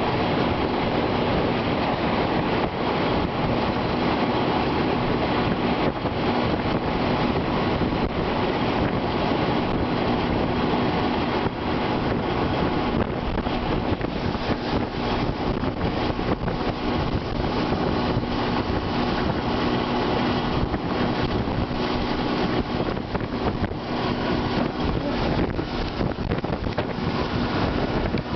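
Loud, steady roar of a tornado's wind, buffeting the microphone.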